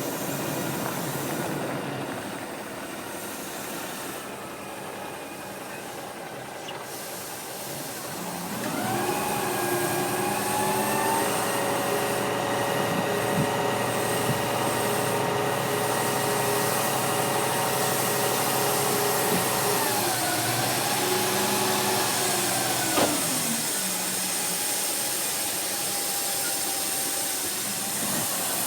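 Kenworth T609 truck's diesel engine with a steady hiss. About a third of the way in the revs rise and are held steady for around twelve seconds, then drop back and die away, leaving the hiss.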